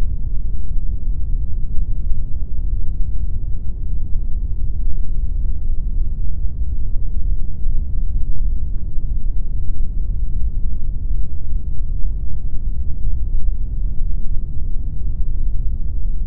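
Steady pink noise: an even, unbroken rush, deep and dark, weighted heavily toward the low end with little treble.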